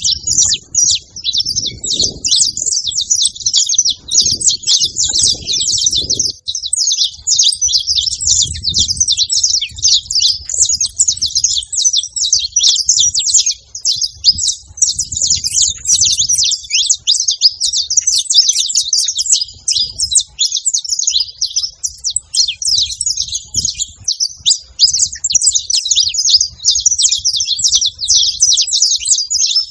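Saffron finches singing: a dense, unbroken run of rapid, high chirps. A low rumble comes and goes underneath, strongest in the first half.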